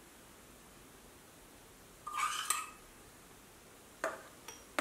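A metal spoon scrapes thick syrup out of a small stainless steel cup, a short squeaky scrape about two seconds in. Near the end the spoon clinks once against a ceramic sauce bowl.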